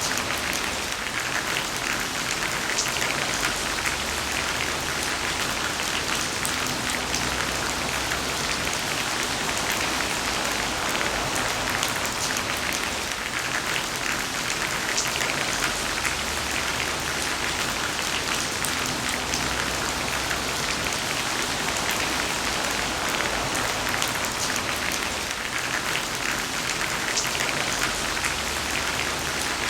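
Heavy rain falling steadily, a dense even hiss of drops with fine crackle from drops striking surfaces.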